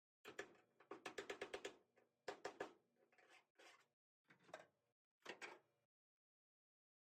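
A quick run of light knocks, about six a second, then a pair and a few single knocks, with a faint ring after them.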